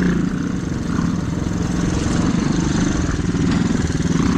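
Small mini dirt bike engine running while the bike is ridden along a trail, easing off briefly about half a second in and then pulling steadily again.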